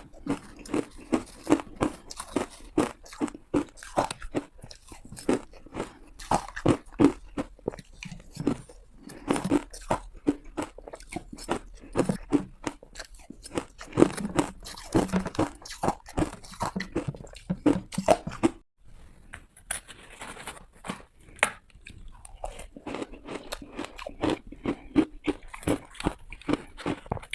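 A person biting into and chewing hard ice: a rapid run of sharp crunches, with a brief gap about two-thirds in.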